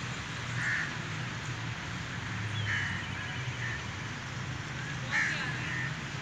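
Birds out of sight giving about five short calls spaced a second or so apart, over a faint steady low hum.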